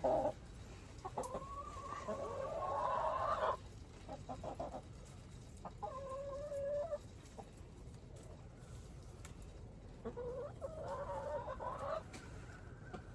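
Chickens clucking and calling, with three drawn-out calls: a long one starting about a second in, a shorter one around the middle, and another near the end.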